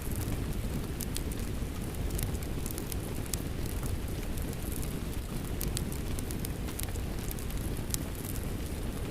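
Wood fire crackling, with frequent sharp irregular pops, over the steady rush of falling rain.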